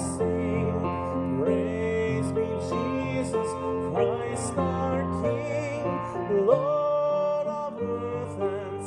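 A hymn sung with vibrato on long held notes, gliding between pitches, over steady sustained keyboard accompaniment.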